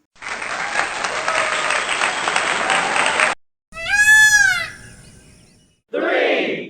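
A burst of applause for about three seconds. Then, about four seconds in, one loud wailing call lasting about a second that rises and falls in pitch: a peacock calling.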